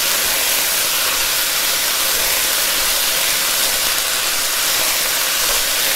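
Thin beef strips and sliced mushrooms sizzling steadily in hot olive oil in a nonstick sauté pan while being stir-fried.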